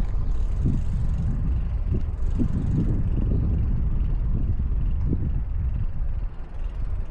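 Wind buffeting a bike-mounted camera's microphone while riding, a steady low rumble with irregular gusts.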